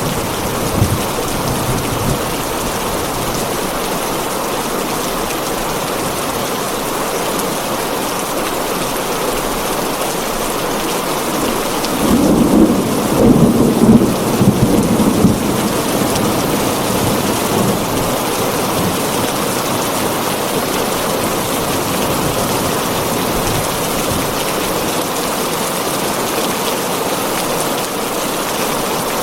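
Heavy rain drumming steadily on a tin roof, with a rumble of thunder building about twelve seconds in and lasting a few seconds; a brief, smaller rumble comes about a second in.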